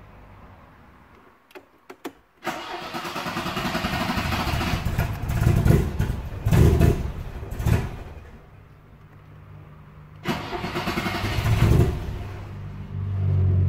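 A car engine starting: a few clicks, then it catches about two and a half seconds in and is revved several times before dropping low. About ten seconds in it fires up again, revs once, and settles into a steady idle near the end.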